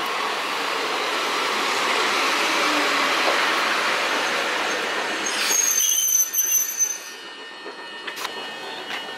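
Electric train running on the rails, its running noise slowly building. About five seconds in a high-pitched metal squeal sets in for a second or so. Then the running noise drops away, leaving a few light clicks.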